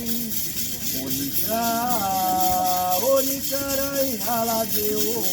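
Voices singing a chant in long held notes that step up and down in pitch, with a shaker or rattle going steadily underneath.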